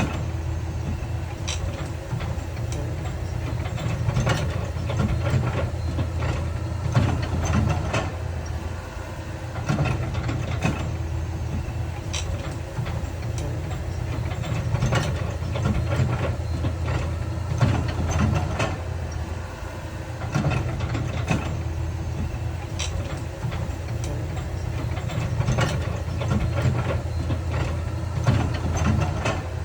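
Heavy diesel earthmoving machine running steadily, with irregular sharp clanks and knocks throughout.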